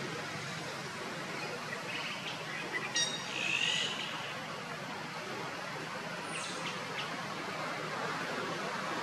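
Short high bird chirps over a steady hiss of outdoor background noise: a few about three seconds in, and one falling call a little past six seconds.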